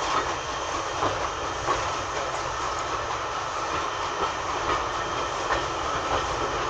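Railway passenger coach rolling along the track while pushed by a steam locomotive: a steady running rumble with occasional wheel knocks.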